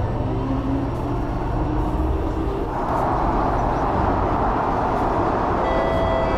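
Singapore MRT train running, heard from inside the carriage: a steady low rumble of wheels on the track, with a hiss of track noise that grows louder about three seconds in. A few faint high tones come in near the end.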